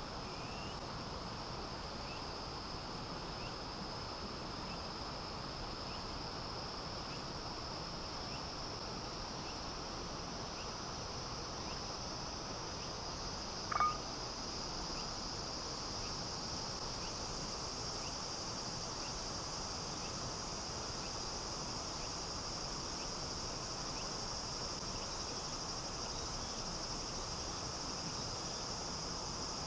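A river flowing steadily under a continuous high-pitched insect chorus, with one short, sharp sound about halfway through.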